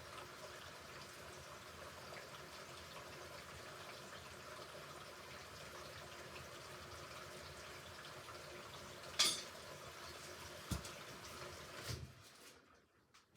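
Hoover Ecologic Computer Washer 1300 washing machine in its rinse cycle, with water running steadily into the drum and a faint hum. About nine seconds in there are a few sharp clicks, and a dull thud comes near the end, after which the water and hum stop.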